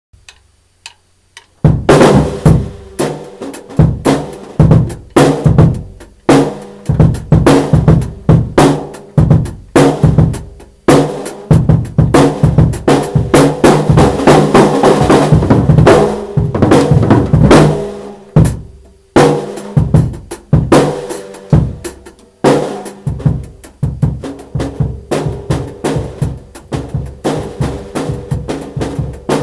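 Drum kit played: fast snare and bass drum hits, starting about two seconds in, with a few short breaks.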